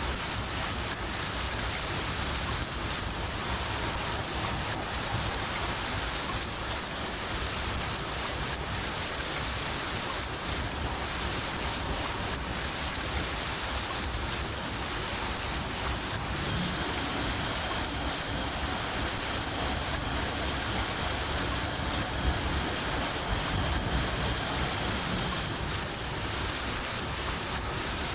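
Crickets chirping in a steady, even rhythm of about three chirps a second, over a continuous hiss of rain with a low rumble of thunder.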